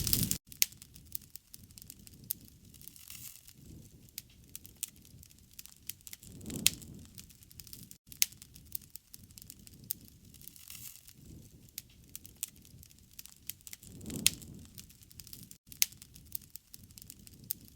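Wood fire crackling with many sharp, irregular pops and snaps, and two soft low swells of flame several seconds apart. A louder rumbling sound cuts off abruptly just after the start.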